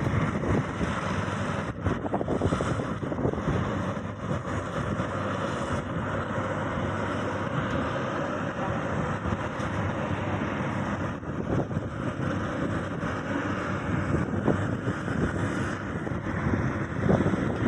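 Maxxi Bimo 102 X Top combine harvester running steadily, a dense, even machine noise with a low engine hum.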